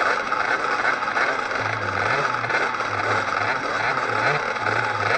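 50cc two-stroke motocross bike engine running hard in a race, its note rising and falling as the throttle is worked.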